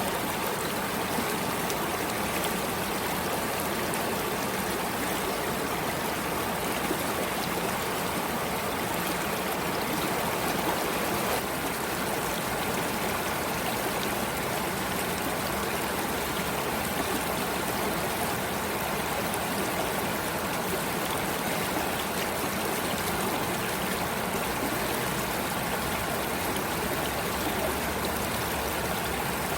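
Water of a stream flowing, a steady, even rush with no breaks.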